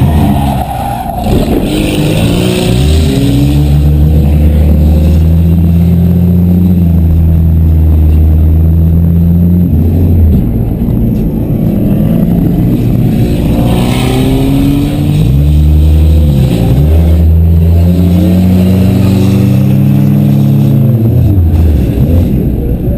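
Demolition derby cars' engines revving hard, held at high revs for several seconds at a time, falling off and picking up again a few times.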